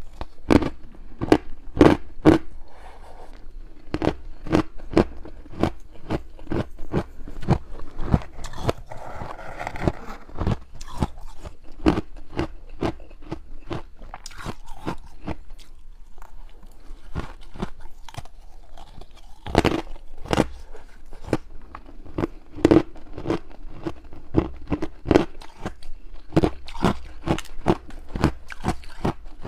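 Hard frozen ice being bitten and chewed up close, a steady run of loud, irregular crunches, several a second, with a lull of softer chewing partway through.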